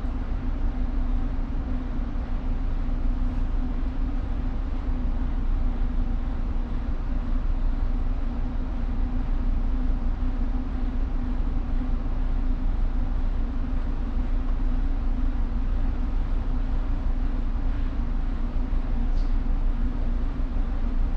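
Steady low rumble of a tanker's engine and machinery with a constant hum, unchanging throughout.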